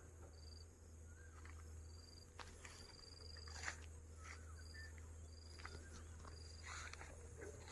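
Faint outdoor bird calls: a high, thin, steady note repeated roughly once a second, with softer, lower chirps between them and a few sharp clicks.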